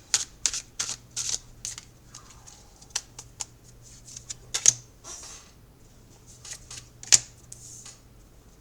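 Tarot cards being shuffled and handled: irregular rustles and sharp snaps of card stock, with two louder snaps midway and near the end.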